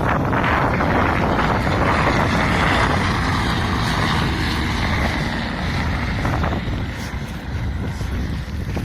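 Wind buffeting the microphone: a steady low rumble with a gusty hiss that eases after about six seconds.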